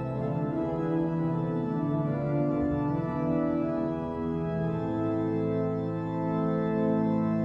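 Pipe organ (Casavant Opus 700) playing in full, long sustained chords that change every second or so.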